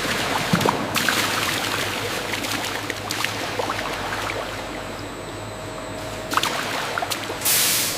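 Liquid running and splashing as a steady hiss, with scattered sharp clicks and a short, louder burst of hiss near the end.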